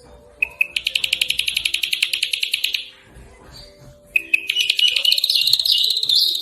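A small songbird singing a rapid, high, buzzy trill of fast repeated notes, twice: one trill of about two seconds starting half a second in, and a second starting about four seconds in.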